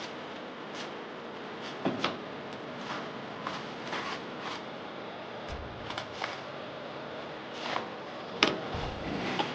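Scattered light knocks and clicks over a steady hiss, irregular, with the sharpest knock near the end.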